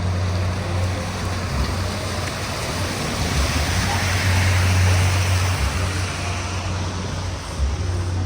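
Street traffic on a wet, snowy road: a steady low engine hum with tyre hiss that swells as a vehicle passes midway.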